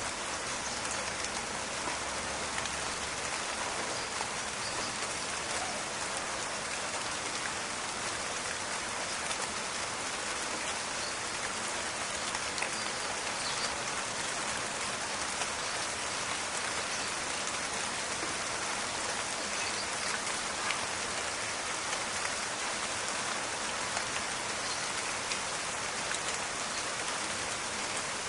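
Steady rain falling in a forest: an even hiss made up of many small drop taps, without a break.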